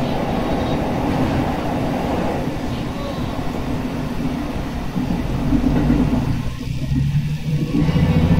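Diesel railcar running along the line: steady wheel and running rumble. About five seconds in, a deeper engine drone with steady low tones comes up and grows louder toward the end.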